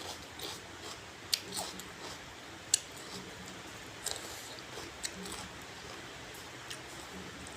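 Close-up chewing and biting of crisp food, sharp crunches about once a second, over a steady hiss of rain.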